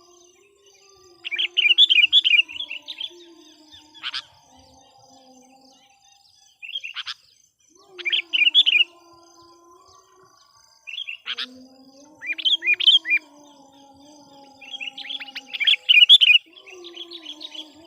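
Sooty-headed bulbul (kutilang) decoy bird singing: short bursts of bubbling, chirpy notes repeated every couple of seconds. This is a decoy call used to lure wild bulbuls.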